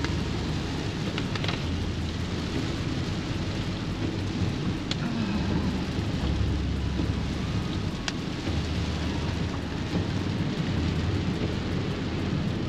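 Steady rumble and hiss inside a moving car's cabin, from tyres on a wet, slushy road, with a few faint clicks.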